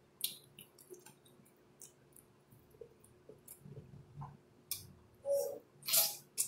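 Close-up mouth sounds of eating oxtail with the fingers: chewing, with scattered wet clicks and lip smacks as meat is pulled off the bone, and a couple of louder smacks near the end.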